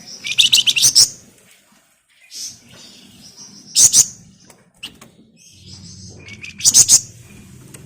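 Flamboyan songbird giving three short, high-pitched bursts of rapid rattling trill, the close-packed 'ngebren' rattle: one at the start, one near the middle and one near the end.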